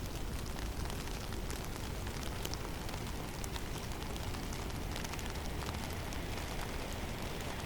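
Blizzard in a snowy conifer forest: a steady low rush of storm wind, with scattered light ticks and patters of snow striking.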